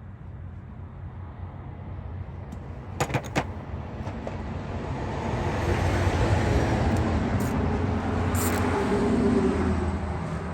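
A motor vehicle passing by, its noise swelling over a few seconds and fading again near the end, over a steady low hum. A quick run of three sharp metallic clicks comes about three seconds in.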